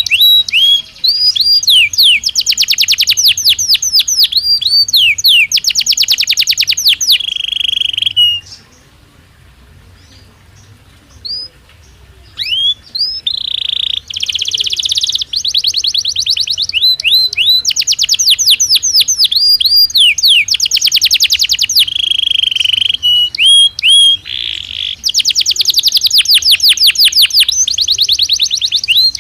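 Belgian canary singing: long rapid trills of repeated notes and sweeping whistled phrases. The song breaks off for a few seconds about a third of the way in, then starts again.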